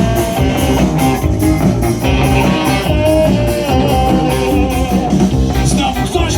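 Rock band playing an instrumental passage: guitar to the fore over bass and drums, with a steady beat.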